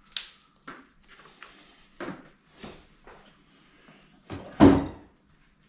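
A stuck pulley on a Ford Focus ST225 engine being worked loose by hand: irregular knocks and clunks of metal on metal, about seven in all, with the loudest, a close double clunk, near the end.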